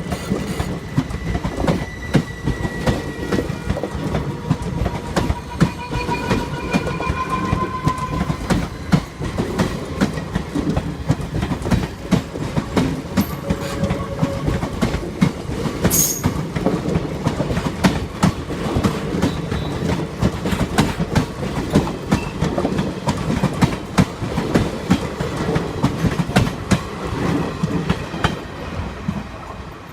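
Passenger train coaches rolling past at speed, their wheels clicking rhythmically over rail joints, with thin wheel squeals in roughly the first nine seconds.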